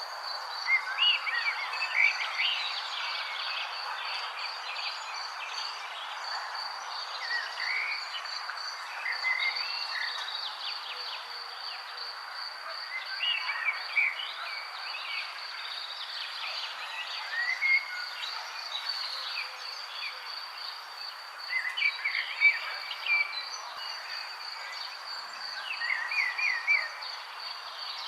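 Songbirds chirping in short, gliding phrases that come every few seconds, over a steady, high, pulsing trill and a constant background hiss.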